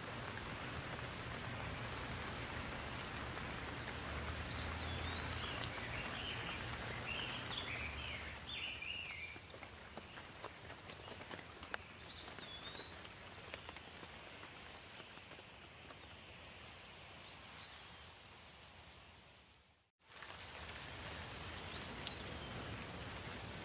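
Steady rain falling, with birds chirping now and then over it. The sound cuts out for a moment about twenty seconds in, then the rain resumes.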